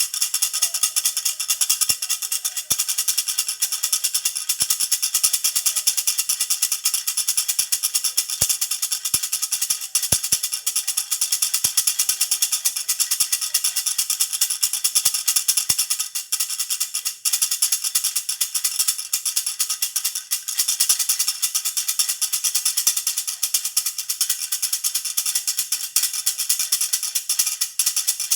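A jhunjhuna baby rattle shaken steadily and quickly, giving a dense, unbroken, high jingling rattle.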